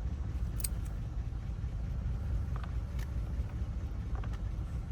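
A vehicle engine idling with a steady low rumble, with a few small, light clicks over it.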